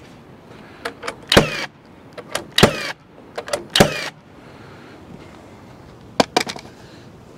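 Power drill driving screws into wood blocking: three short runs about a second apart, each a brief whine, with sharp clicks between them and a few more clicks near the end.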